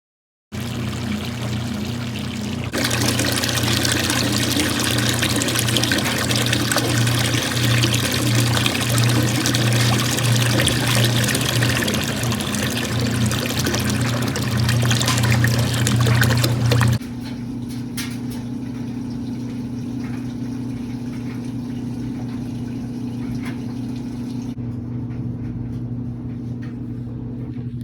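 Water running or pouring over a steady low hum. About two-thirds of the way through, the rushing water stops abruptly and the hum continues more quietly, with a few faint clicks.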